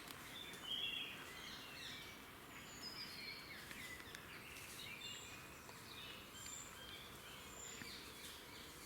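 Several songbirds singing and calling at once: a busy, overlapping mix of short chirps, trills and high whistles over a steady background hiss.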